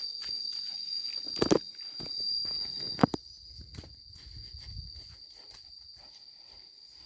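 Rustling and crunching in a garden with two sharp cracks, one about a second and a half in and one about three seconds in, over a steady high insect buzz.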